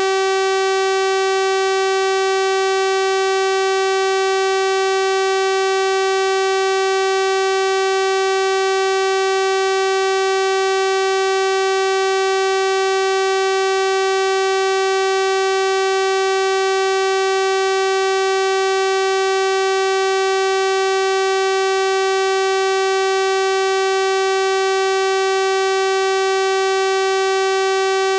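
Synthesized 384 Hz sawtooth-wave test tone, held steady and unchanging: a bright, buzzy pitch rich in harmonics.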